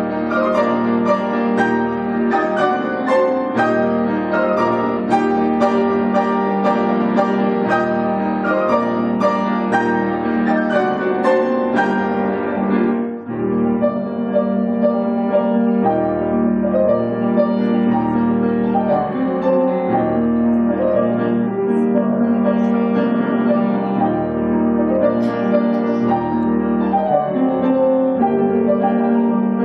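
Piano music: quick, busy passages for about the first twelve seconds, a brief break, then slower, longer-held notes.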